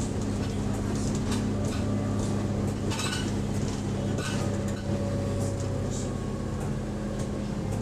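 Bus engine running steadily inside the cabin, with irregular clicking and rattling of loose interior fittings.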